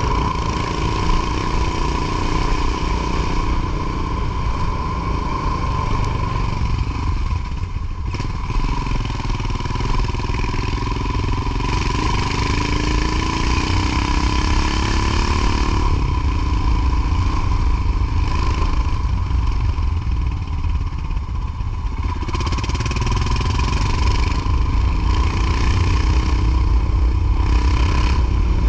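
Motorcycle engine running under way, with a heavy low rumble of wind on the microphone. The engine's pitch climbs a couple of times as it accelerates, over a steady high whine.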